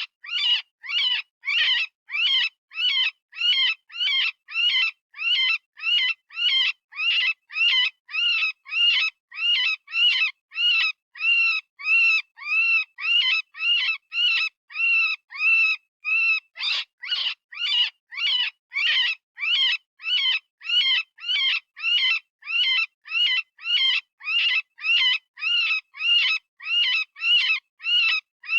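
Electronic rabbit distress call of the kind used for predator hunting: short, high, screaming cries repeated about two a second, each rising and falling in pitch. About two-thirds of the way through, a few cries come out harsher before the even pattern resumes.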